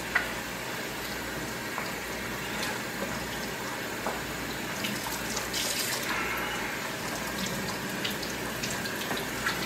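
Kitchen faucet running a steady stream of hot water onto a foam filter pad in a plastic canister-filter media tray, splashing down into a stainless steel sink, with a few faint knocks as the tray is handled.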